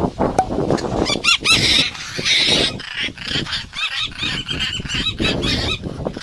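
Parrots calling: a run of short, repeated squawking calls, several a second, with a harsher rasping screech about two seconds in.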